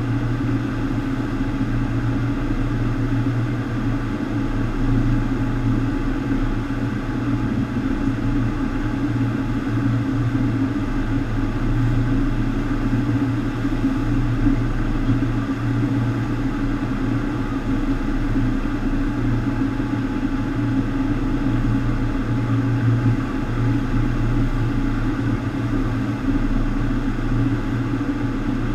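FlowRider sheet-wave machine running: a steady hum from its pumps under a constant rush of water.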